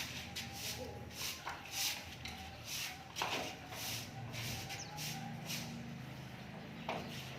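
White-eyes (pleci) calling: a quick run of short, high chirps, about two a second.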